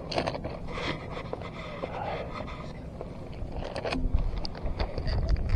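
Rubbing, scraping and many small clicks of fishing tackle being handled in a kayak while a torn soft bait is swapped for a new one. A low wind rumble on the microphone grows near the end.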